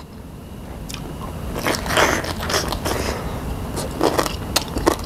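Close-miked chewing of crunchy food, with crisp crunches about two seconds in and a few sharp clicks near the end.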